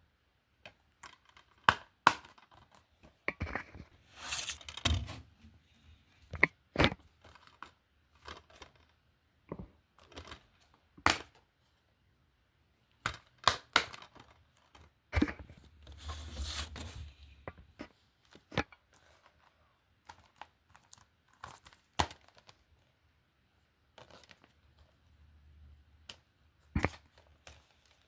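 Plastic DVD and Blu-ray cases being handled: irregular sharp clicks and knocks, with a few stretches of rustling and scraping.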